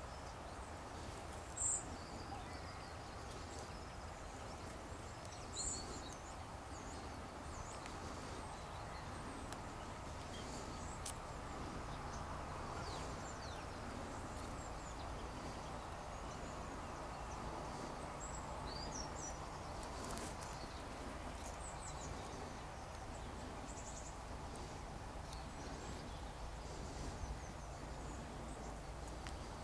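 Outdoor ambience: a steady low rumble with a few short, high-pitched calls of small birds, the loudest about two seconds and six seconds in.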